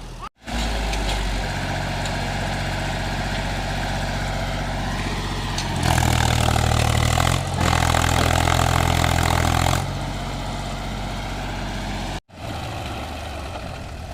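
Mahindra 275 DI tractor's three-cylinder diesel engine running, revved harder for about four seconds in the middle, then settling back to a steadier run. The sound breaks off sharply twice, briefly, near the start and near the end.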